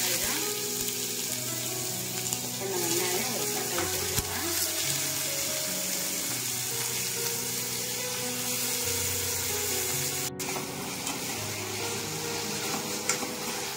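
Sliced onions, then chopped tomatoes, sizzling steadily in hot oil in a stainless steel kadai, with a spoon stirring them near the end.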